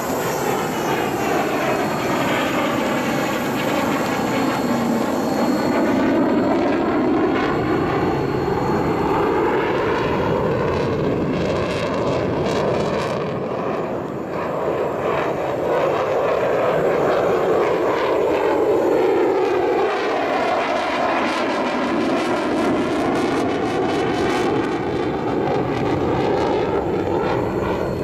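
Mitsubishi F-2 fighter's turbofan jet engine roaring as the jet flies past, a continuous rushing noise with a whooshing, phasing sweep that falls and rises as it passes.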